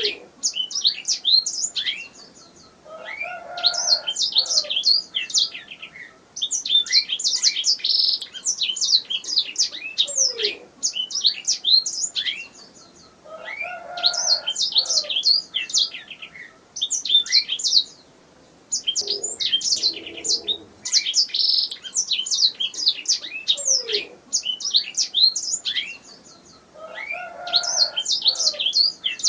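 Domestic canary singing: fast, high chirps and trills in phrases of a few seconds, with short pauses between them. Fainter lower sounds come in underneath now and then.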